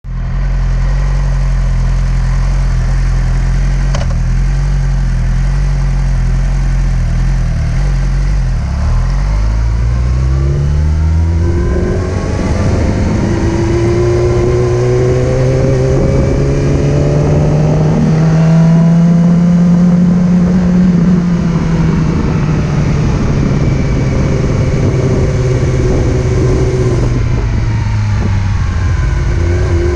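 Motorcycle engine running low and steady, then rising in pitch as it accelerates about a third of the way in. It holds a higher note, then eases off and settles lower near the end, over a steady hiss.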